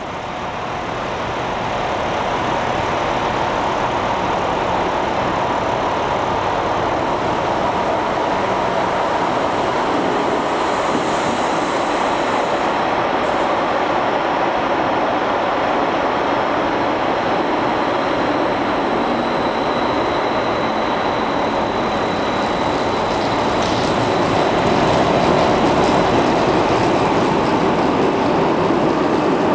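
Electric trains running through a station: a steady rail and traction noise, with a high hiss a third of the way in. The noise swells near the end as another train approaches.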